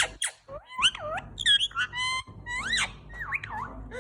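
Parrot calling: a rapid run of quick rising and falling whistles and short squawks, one after another.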